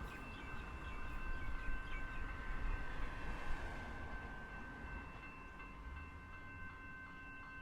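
Melbourne suburban electric train rumbling over the level crossing and fading away, while the crossing's warning bells keep ringing with steady high tones. Near the end the bells settle into a regular ding of about two to three strokes a second.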